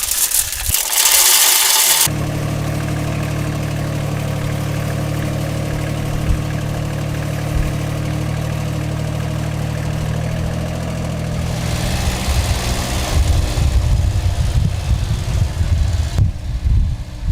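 Mini tractor's diesel engine idling with a steady low hum, then running rougher and louder from about twelve seconds in. A different loud, hissy sound fills the first two seconds before it cuts abruptly to the engine.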